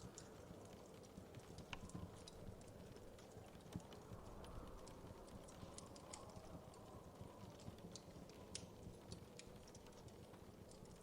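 Faint wood fire crackling: irregular small pops and snaps over a soft, low rumble of burning.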